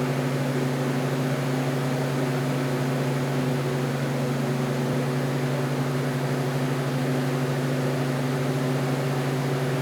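Loud, steady machine hum over an even hiss, with a few fixed low tones, like a fan or other running equipment.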